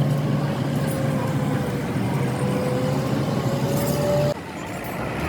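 A machine motor running steadily with a low hum and a whine that rises slightly in pitch, stopping abruptly a little over four seconds in.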